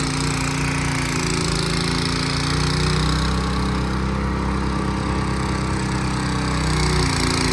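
Gas snow blower engine running steadily under load while it churns and throws heavy snow.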